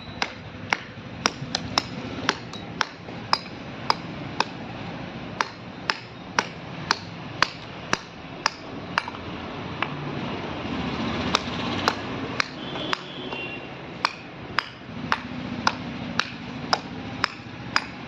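Mallet striking a wood-carving chisel in a steady series of sharp taps, about two a second, with a short pause about halfway through.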